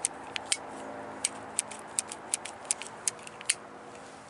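Irregular sharp clicks and clinks of small metal parts being handled, about two or three a second, stopping near the end, over a steady low hum.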